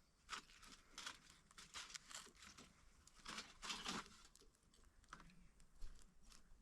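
Faint crinkling and rustling in short irregular crackles, a little louder and denser about three to four seconds in.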